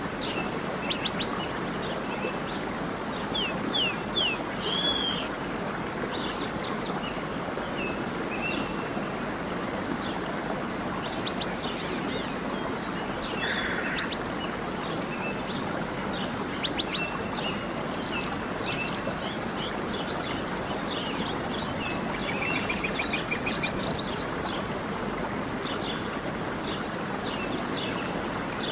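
Steady rush of a flowing stream, with many small birds chirping and singing over it in quick short notes, busiest in two spells near the start and in the second half.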